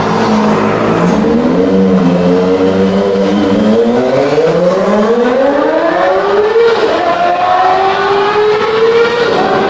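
Kawasaki ZX-25R's 250 cc inline-four engine through an aftermarket exhaust, pulling up through the revs: its note climbs steadily for about five seconds, dips briefly, climbs again, then drops near the end.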